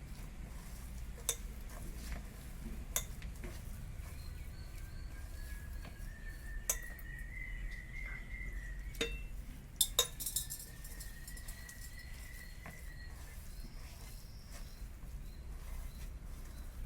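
Gram-flour batter being mixed by hand in a bowl, with a few sharp clinks of the bowl and utensils over a steady low hum. A faint thin whistling tone slowly rises and holds twice in the middle.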